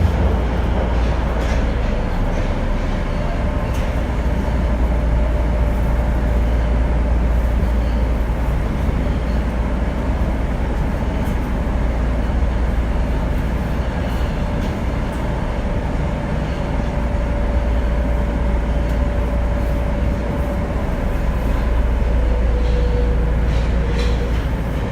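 Tokyo Metro 02 series subway train running between stations: a steady rumble of wheels on rail with a faint steady motor tone that drops slightly near the end.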